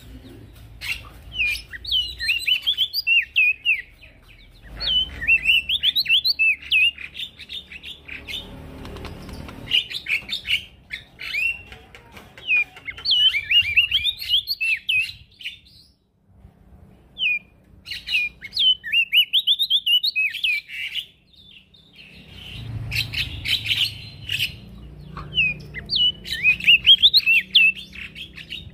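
Male prenjak daun singing vigorously: phrase after phrase of quick, high twittering notes, each burst lasting a few seconds, with short pauses between them.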